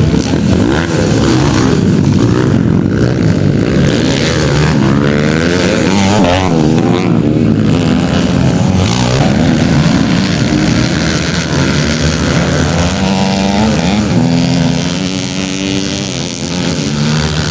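Several motocross bike engines revving at once, their pitches repeatedly rising and falling and crossing one another.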